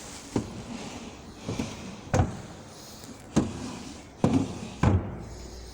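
About five separate knocks and clicks, irregularly spaced over a few seconds.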